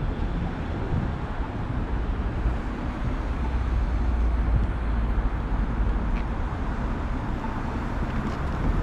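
City street traffic: a steady low rumble of passing vehicles that swells a little around the middle.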